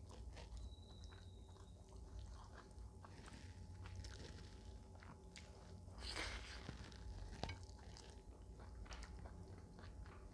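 Close-miked eating sounds: a person chewing and biting food, with small wet clicks and crunches, and a louder bite about six seconds in.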